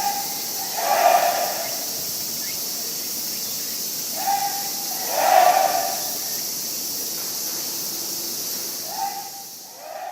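Crow calling three times, a drawn-out caw every four seconds or so, over a steady high hiss.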